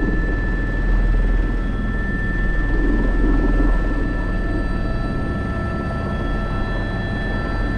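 Airbus H125 (AS350 B3) helicopter running steadily: a low, even rotor beat with the turbine engine's thin, steady whine above it.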